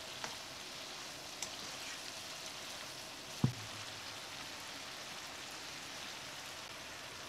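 Prawns and chorizo in oil and lemon juice sizzling in a frying pan: a steady hiss. One short knock about three and a half seconds in.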